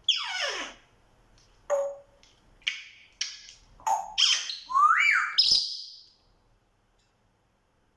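African grey parrot whistling and squawking in a quick series of calls. A long falling whistle opens it, then short chirps and squawks, with a rising whistle about five seconds in.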